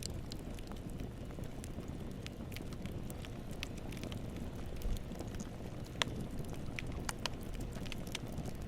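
Campfire burning: a steady low rumble of the flames with scattered crackles and sharp pops, one louder pop about six seconds in.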